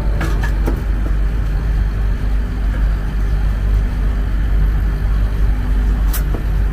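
A steady low rumble, with a few short clicks near the start and another near the end.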